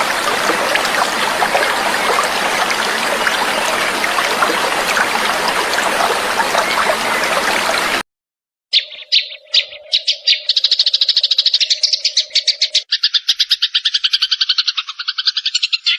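Running stream water trickling steadily, which cuts off abruptly about eight seconds in. After a moment of silence, a recorded songbird begins a rapid, chattering trill of quickly repeated notes, about ten a second. For its first few seconds a steady lower tone runs beneath it.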